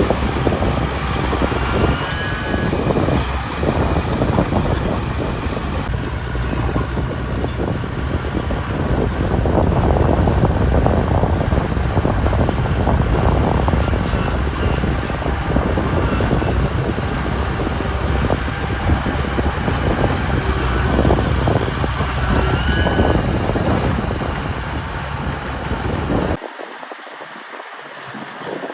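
Heavy diesel earthmoving machine working, its engine running under load with steady rattling and clanking. The deep engine sound cuts off abruptly about 26 seconds in, leaving a quieter, thinner machine noise.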